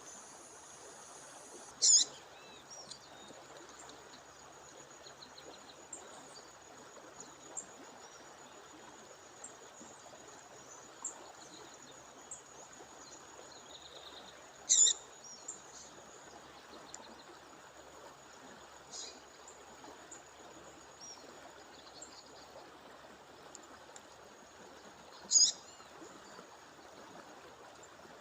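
A female songbird giving short, sharp high calls three times, roughly ten seconds apart, with a few faint chirps between, over the steady rush of a waterfall and a thin continuous high tone.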